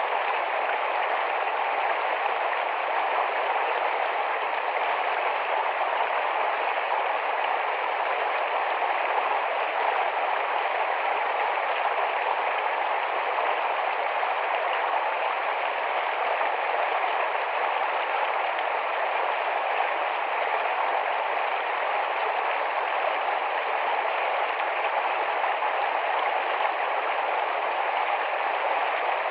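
Small forest stream running fast over stones: a steady, even rush of water with no breaks.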